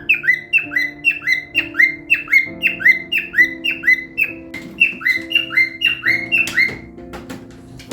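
Cockatiel chirping a fast run of short whistled notes, about four a second, that stops shortly before the end, over background music with held chords.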